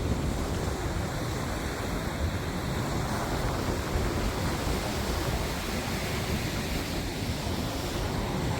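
Steady rush of sea waves and wind, with wind buffeting the microphone.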